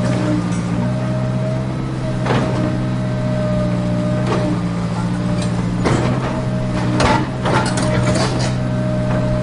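A steady engine-like drone with a low buzz holds throughout, with scattered sharp clicks and knocks of plastic toy construction trucks being handled on soil, most of them in the second half.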